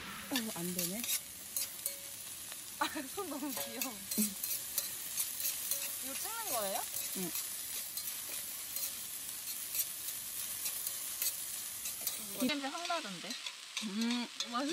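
Chopped green onions sizzling and crackling in hot oil in a stainless steel pan while being stirred, frying into scallion oil. The sizzle drops away sharply near the end.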